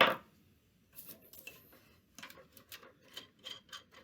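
A sharp metal clank, then light irregular ticking and clicking from a nut being turned off a threaded rod on an MMTS temperature shelter after a wrench loosened it.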